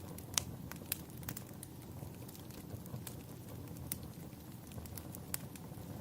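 Wood fire crackling: a steady low rumble with irregular sharp pops and snaps, a few louder ones about half a second in, near one second and around four seconds.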